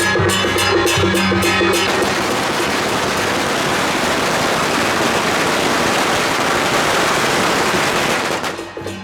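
Beiguan procession band music with shrill reed horns and drums, which about two seconds in is swamped by a dense, continuous crackling noise for some six seconds; the band is heard again near the end.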